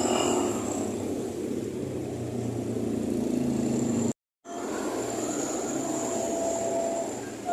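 Small electric motor and gears of a miniature RC truck running steadily with a thin high whine. The sound cuts out completely for a moment about four seconds in.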